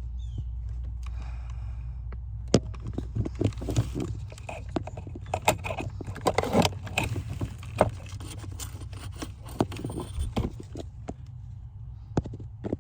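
Irregular knocks, clicks and scraping of handling and shifting about in a car's footwell under the brake pedal, over a steady low hum.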